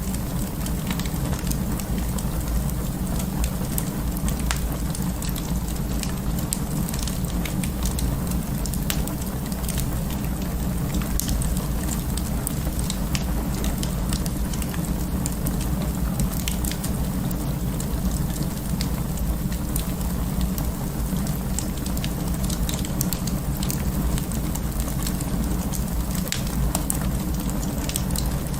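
Wood fire burning in an open fireplace: a steady low rumble of flames with frequent small crackles and pops scattered throughout.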